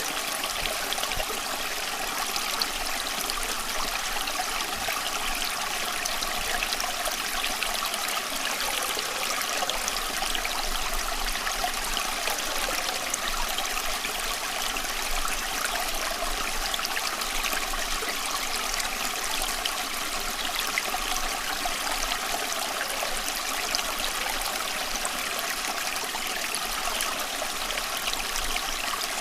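Running water flowing steadily, an even rushing with fine trickling detail and no pauses.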